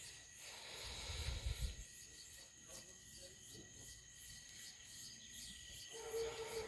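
Insects chirping steadily, a high pulsing about three times a second over a continuous high drone, with a brief low rumble about a second in.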